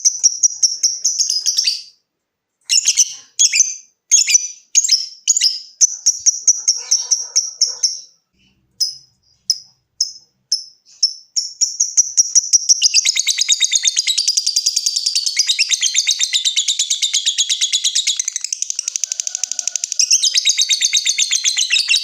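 Lovebird calling: a run of short, high, separate calls, then about twelve seconds in a long unbroken rapid chattering trill, the 'ngekek' that keepers prize.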